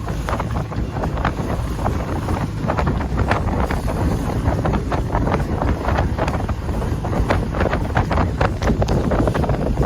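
Wind buffeting the microphone aboard a sailboat under way: a steady low rumble, with many short crackling splashes of water throughout.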